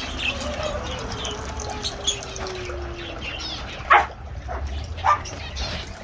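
A dog whines in one long, slowly falling note, then gives a single sharp bark just before four seconds in, while small aviary birds (parakeets and finches) chirp in short high calls.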